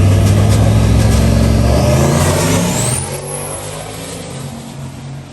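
Turbocharged race truck engine rumbling loudly, then accelerating away with a rising turbo whistle about two seconds in. The sound drops off suddenly at about three seconds and fades as the truck pulls away.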